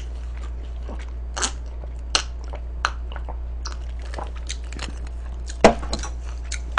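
A person chewing and crunching food close to the microphone: irregular crisp crunches, the sharpest about five and a half seconds in, over a steady low hum.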